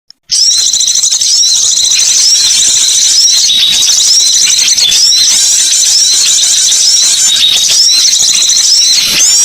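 Recorded small songbird calls played as a bird lure: loud, dense, high-pitched chirping with short hooked notes repeating over and over, after a brief dropout right at the start.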